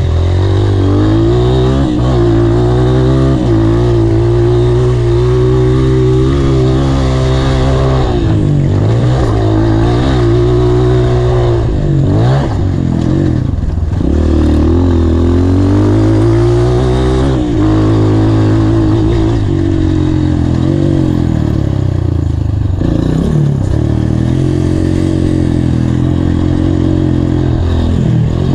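Honda CRF230's single-cylinder four-stroke engine being ridden hard, its pitch climbing under throttle and dropping back again and again as the rider accelerates, shifts and rolls off.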